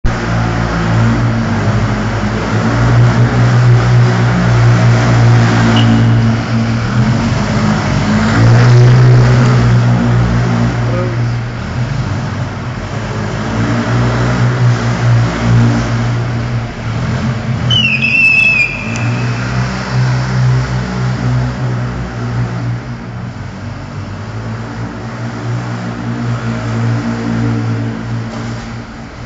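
Chatenet Barooder microcar's small engine revving up and easing off again and again as the car is slalomed and drifted, sounding inside an underground car park. About two-thirds of the way in, a short high tyre squeal slides down in pitch during a handbrake drift.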